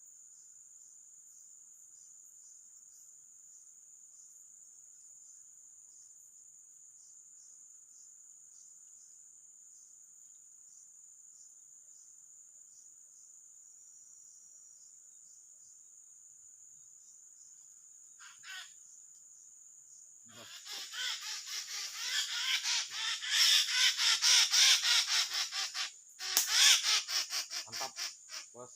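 Crickets giving a steady high-pitched trill. From about two-thirds of the way in, a much louder harsh, rapidly pulsing rasping sound takes over.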